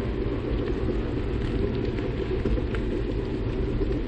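Steady low rumble of wind buffeting the microphone, with road noise, while riding a bicycle.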